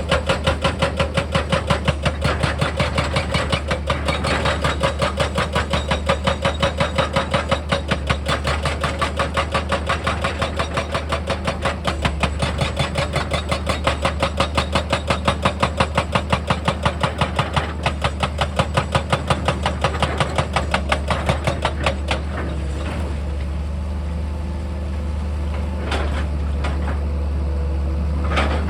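Heavy machinery at work: a fast, even percussive hammering, about four or five blows a second, over a diesel engine. The hammering stops about 22 seconds in and the engine keeps running.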